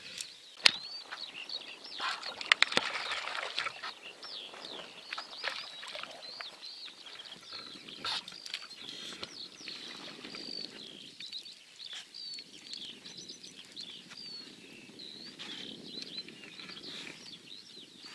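Songbirds chirping and singing without pause in short, quick up-and-down notes. A sharp click comes about a second in, and a few more knocks come around two to three seconds in.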